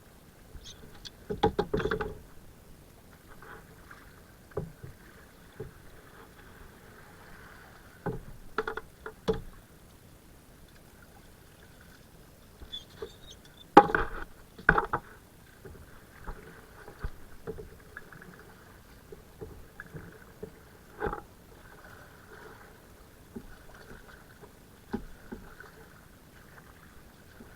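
Kayak on a river: irregular paddle splashes and knocks on the hull, the loudest cluster about halfway through.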